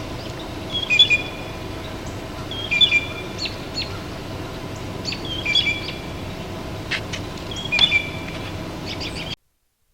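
Blue jay giving its musical, non-alarm call: a short ringing phrase of clear notes mixed with clicks, repeated four times at intervals of two to three seconds, over steady background noise.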